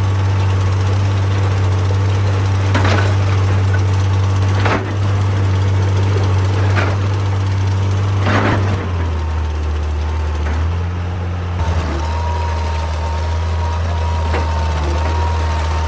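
Excavator's diesel engine running steadily, with four sharp knocks of rock about two seconds apart. The engine note drops about nine seconds in, and a thin steady whine comes in after about twelve seconds.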